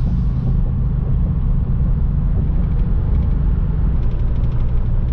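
Steady low road and engine rumble inside a moving truck's cab, with a quick run of faint ticks about four seconds in.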